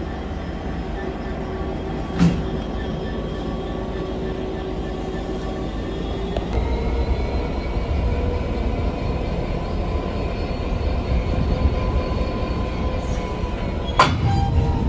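A train running with a steady low rumble and faint held tones, growing louder from about six seconds in. Two sharp clanks sound, one about two seconds in and one near the end.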